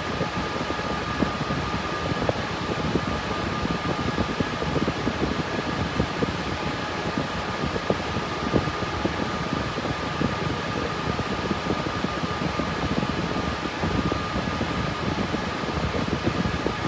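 RTX 3060 Ti GPU mining rig's cooling fans running under load: a steady whir with a faint whine that holds one pitch.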